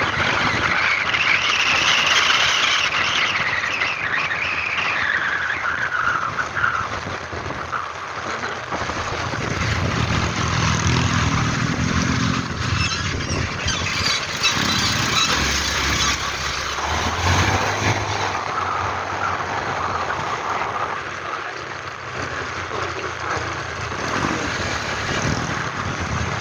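Vehicle on the move, heard from inside: steady engine and road noise, with a high squeal that slides down in pitch over the first several seconds.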